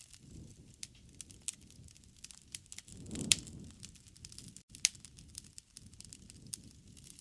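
Campfire crackling: burning wood gives off many irregular small snaps and pops over a low rustle of flame, with the sharpest pop about three seconds in and another near five seconds.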